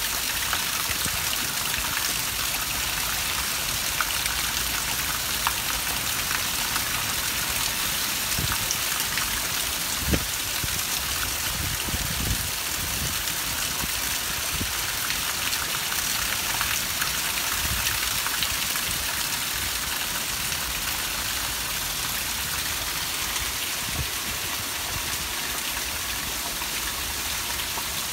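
Heavy rain pouring steadily onto yard, pavement and street in a hurricane's outer rain band. A few low thumps stand out about ten and twelve seconds in.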